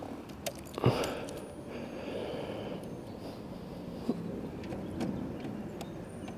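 Honda CBR300R motorcycle running at low speed or idling under a noisy haze, with a sharp knock about a second in and a few lighter clicks after.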